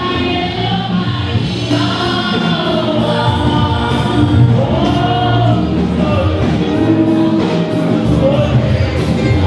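A choir singing with instrumental backing and a steady beat.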